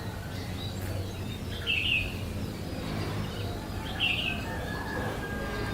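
A bird chirping: two short high calls about two seconds apart, over a steady low hum.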